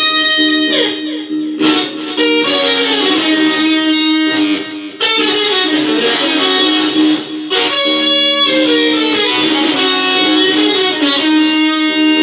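Electric guitar playing a blues line, with notes bent up and down in pitch and held to ring.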